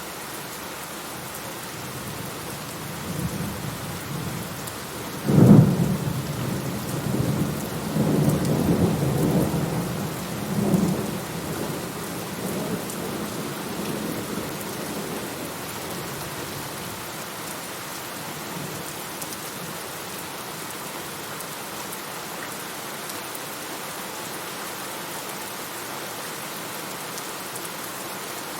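Steady heavy rain falling, with a thunderclap about five seconds in: a sharp crack followed by several seconds of low rolling rumble that fades away.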